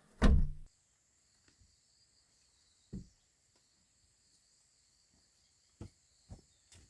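A loud thump just after the start, then a steady high-pitched insect trill, like crickets, with a few soft knocks near the middle and end.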